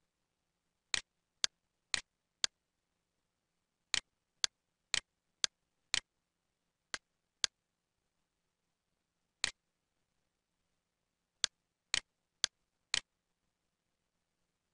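Computer mouse button clicking, about sixteen sharp clicks half a second apart in short groups, with pauses between the groups.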